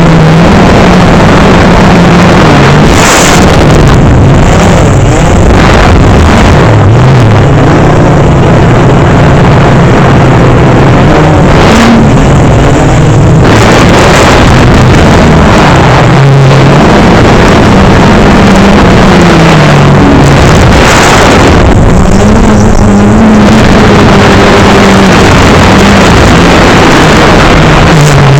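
DJI Phantom 3 quadcopter's propellers humming, the pitch wandering up and down as the motors speed up and slow down, under a loud steady rushing noise that swells several times.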